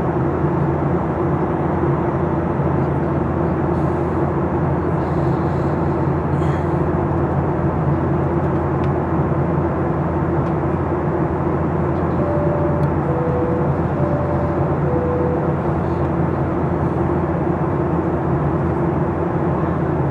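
Steady cabin noise of a Boeing 737-800 in flight: its CFM56-7B engines and the airflow as a constant drone with a steady low hum. About halfway, a faint high-low cabin chime sounds twice.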